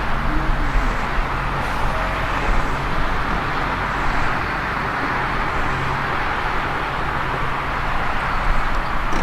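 Ichibata Electric Railway 7000 series electric railcar DeHa 7002, a steady hum over an even noise at a constant level.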